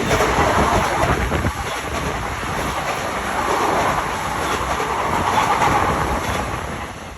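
Sotetsu 21000 series electric train passing close by, its wheels running on the rails, fading near the end.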